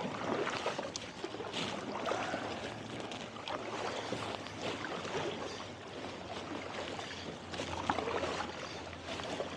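Kayak paddles splashing and dripping in lake water in an irregular run of strokes, with water sloshing along the hull.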